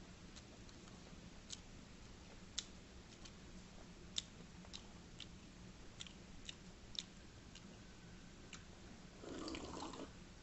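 Faint mouth sounds of a person chewing food, a scatter of small wet clicks and smacks. About nine seconds in comes a short sip from a mug.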